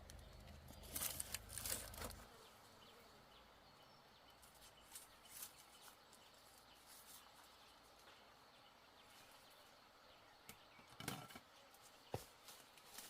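Near silence, broken by a few short clicks about a second in and again near the end.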